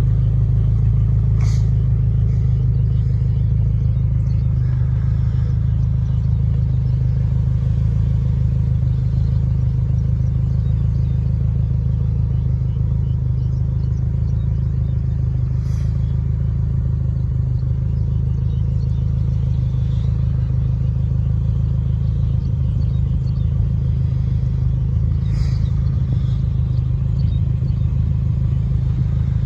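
Steady low rumble of a car's engine and tyres on the road, heard from inside the moving car's cabin, with a few faint brief clicks.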